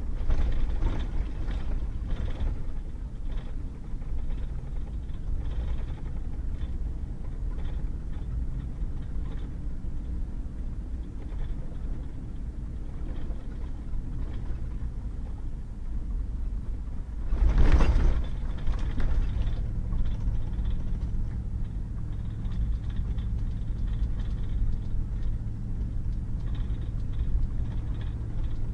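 Pickup truck driving on a rain-wet gravel road: a steady low rumble of engine and tyres. About two-thirds of the way in there is a brief loud surge of noise lasting about a second, after which a steady low engine hum comes up.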